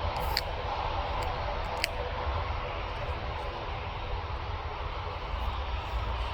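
Steady, distant jet airliner engine noise, with two short clicks in the first two seconds.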